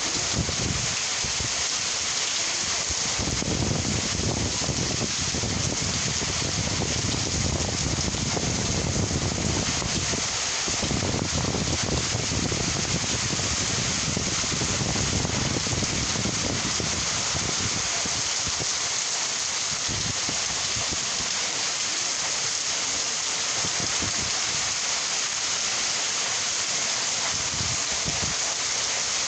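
Steady rain falling, an even hiss, with a low rumble that swells and fades through the first half.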